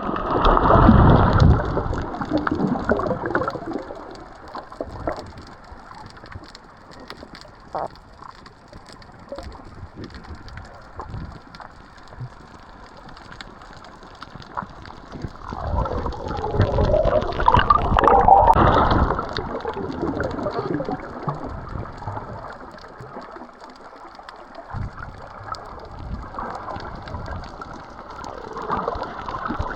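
Muffled water sloshing and gurgling, picked up by a camera in the water while snorkelling, with louder swells of splashing and bubbling near the start and again about halfway through.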